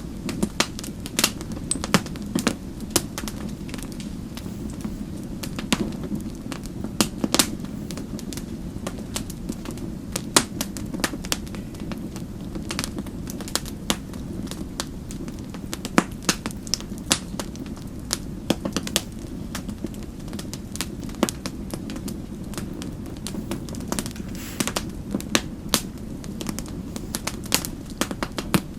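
Wood fire crackling steadily in a fireplace: a low, even rumble of flames with frequent sharp, irregular pops and snaps.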